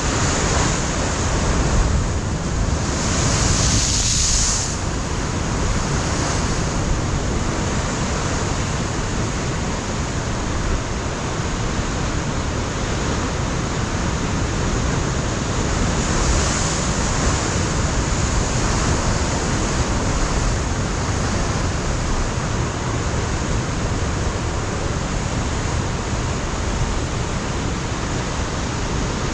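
Ocean surf breaking on a rocky shore, a continuous wash of waves, with a stronger surge of spray about three to four seconds in and another weaker one about halfway through. Wind buffets the microphone at times.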